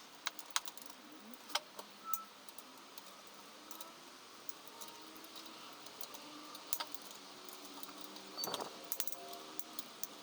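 Scattered light metallic clicks and clinks of small tools or parts being handled, with a brief busier clatter about eight and a half seconds in.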